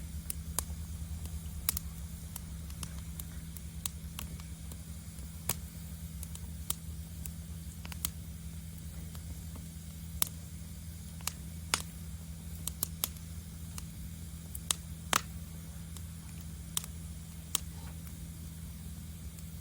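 Wood fire burning in a fire pit, crackling with irregular sharp pops over a steady low rush.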